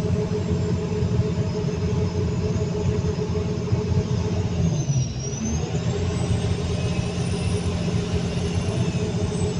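Caterpillar 320D2 L excavator's diesel engine and hydraulic pump running steadily at working speed, with a brief dip in pitch about five seconds in before it picks back up. The engine is holding normal RPM after the pump's constant-horsepower flow limit was adjusted to cure low power.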